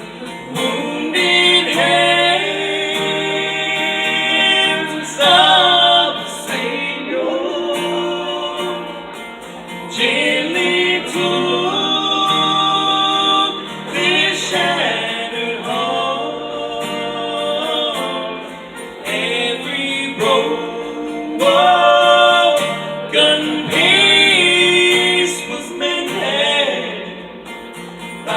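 Live gospel music: singing accompanied by acoustic guitar.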